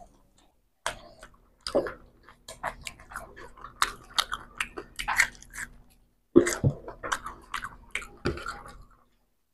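Close-miked chewing of rice and fried hilsa fish eaten by hand: a dense run of irregular sharp mouth clicks, starting about a second in.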